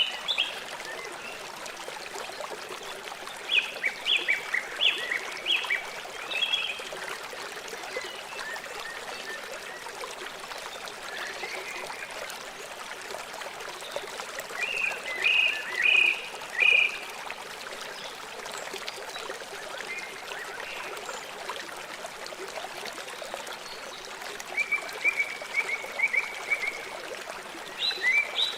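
Steady rush of a river's flowing water, with an animal calling several times in short runs of quick, high notes.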